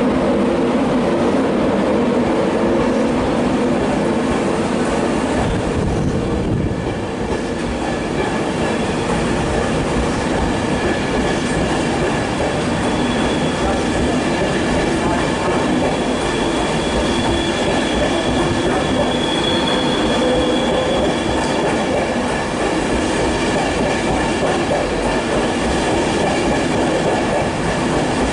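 Class 91 electric train with its coaches rolling past as it pulls out, wheels clacking over the rail joints with some thin wheel squeal over a steady rumble.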